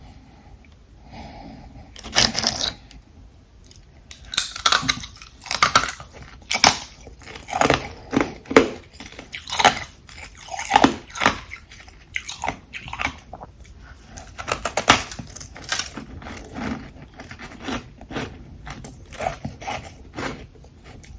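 Ice being bitten and chewed close to the microphone: after a quiet start, a first loud crunch about two seconds in, then a steady run of crunching bites and chews to the end.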